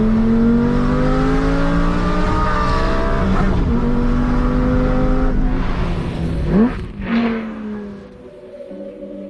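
Lamborghini Gallardo V10 engine under throttle. Its pitch climbs for about three seconds, then drops as it shifts up, holds steady, and gives one short, sharp rev about two-thirds through before falling away.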